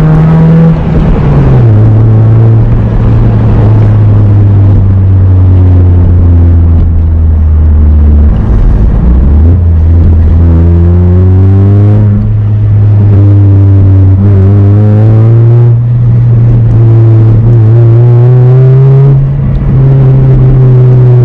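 2005 Acura RSX's 2.0-litre four-cylinder engine running loud under way, a steady exhaust drone whose pitch drops about two seconds in and then climbs slowly through the second half as the revs change.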